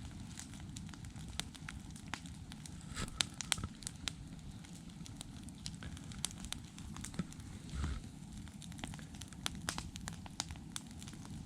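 Campfire burning, with irregular sharp crackles and pops of the wood over a steady low rumble, and a quick run of pops about three seconds in.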